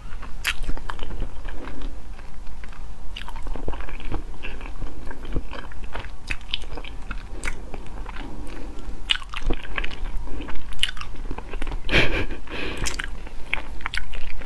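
Close-miked chewing of soft red sugar apple flesh: a steady run of wet mouth clicks and smacks as the many seeds are worked free with the tongue, with a louder cluster of sounds about three quarters of the way through.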